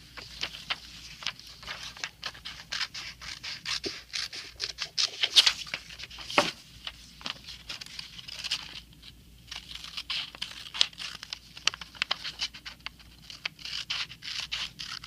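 Scissors snipping through paper in quick irregular runs of short crisp cuts, with the page rustling between them as the bird-feeder roof is cut out along its dashed line.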